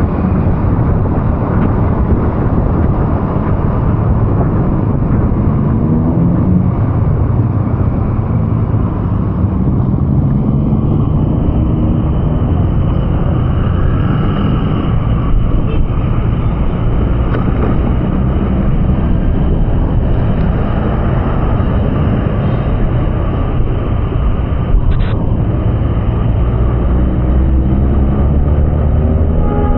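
Vehicle engine and road noise while driving, a steady loud low rumble with the engine's pitch rising and falling, rising again near the end.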